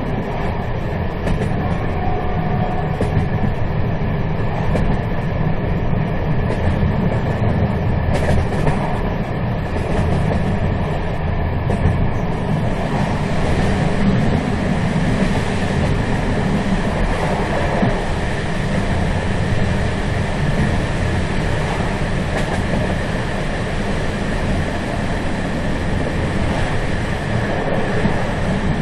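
Moving train: a steady rumble of wheels on rail, heaviest in the low end, with a brighter hiss filling in about halfway through.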